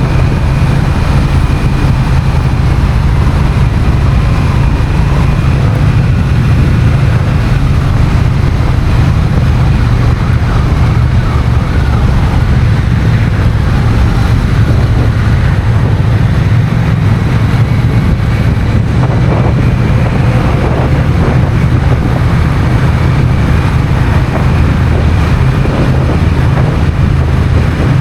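Honda CMX1100 Rebel's parallel-twin engine running steadily while the bike is ridden, with wind noise on the microphone.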